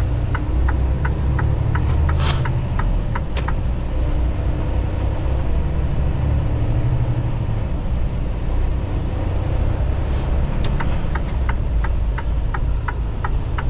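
Semi-truck cab with the diesel engine rumbling low and steady. A turn signal ticks about three times a second for the first few seconds and again near the end, and two short hisses of air come about two and ten seconds in.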